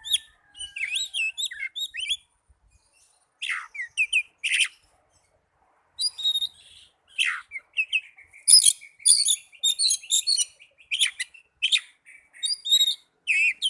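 Oriental magpie-robin singing a varied song of loud clear whistles, sharp chirps and quick sweeping notes in short phrases, with brief pauses. About eight seconds in, a fast rattling trill runs under the whistles for a couple of seconds.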